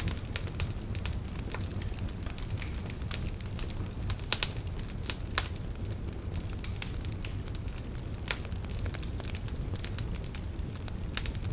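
Wood campfire crackling: frequent sharp pops and snaps, irregularly spaced, over a steady low rumble. A few louder pops come about four to five and a half seconds in.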